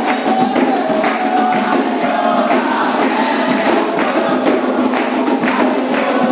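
Candomblé ritual music: a group sings a chant over steady struck percussion.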